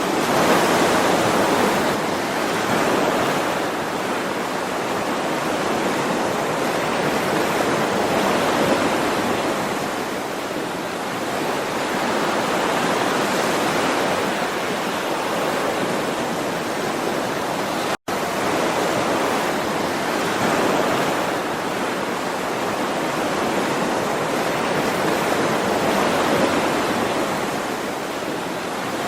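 Ocean waves washing in as continuous surf, swelling and easing every few seconds. About two-thirds of the way through, the sound cuts out completely for an instant.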